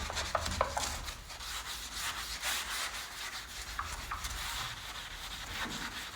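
Scouring sponge rubbed over fireplace glass, a rasping scrub in uneven strokes.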